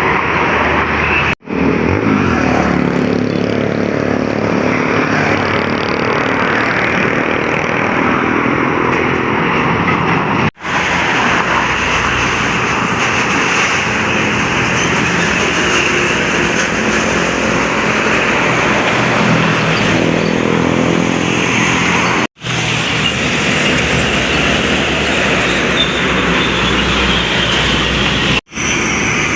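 Road traffic with trucks passing: diesel engines running over steady tyre and road noise. The sound cuts out abruptly for an instant four times, at about 1.5, 10.5, 22.5 and 28.5 seconds in, as one short clip gives way to the next.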